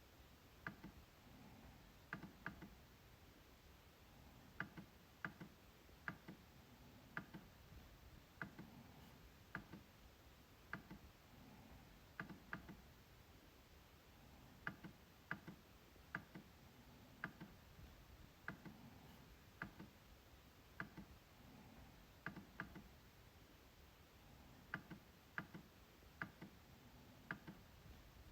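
MacBook trackpad clicking: faint, sharp clicks at irregular intervals, about one or two a second and often in quick pairs, each with a dull low thud under it.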